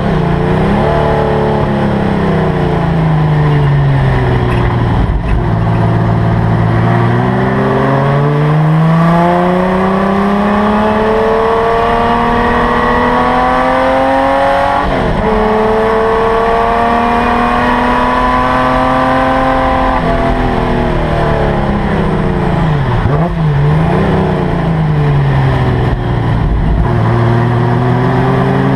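Holden LC Torana GTR XU1's straight-six race engine heard from inside the cabin, with the pitch falling as it slows off the throttle, then climbing steadily under hard acceleration and holding high revs. About 23 seconds in the pitch drops again with a couple of quick jumps, before it climbs once more near the end.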